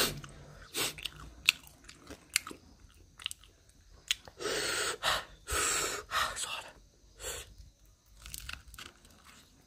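A person biting and chewing food close to the microphone, with scattered crunchy, wet mouth clicks and a couple of louder breathy puffs around the middle.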